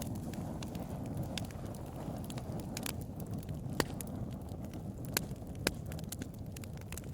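Wood fire burning with a low steady rumble and irregular sharp crackles and pops, roughly one every second.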